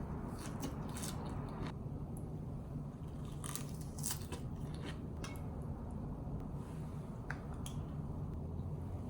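Scattered small clicks and scratchy ticks, like objects being handled, over a steady low hum.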